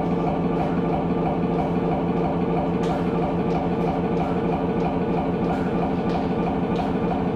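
A loud, steady engine-like drone: a low rumble under several held tones, with faint ticks now and then.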